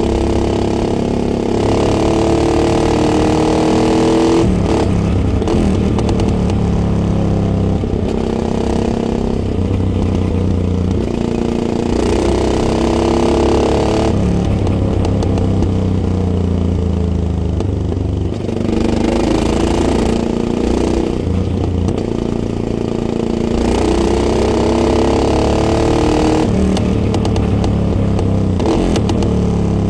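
Yamaha XT660X single-cylinder four-stroke engine, recorded on the bike while riding. The revs climb and fall several times, with sudden pitch drops at gear changes and a longer slowing-down stretch in the middle.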